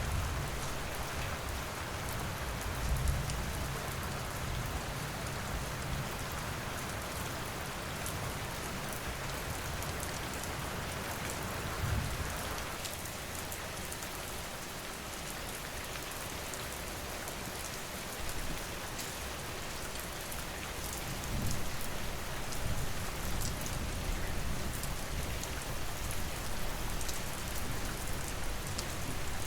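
Steady rain falling, with scattered sharp ticks and crackles throughout and a few low rumbles, one near the start, one about twelve seconds in and one about twenty-one seconds in.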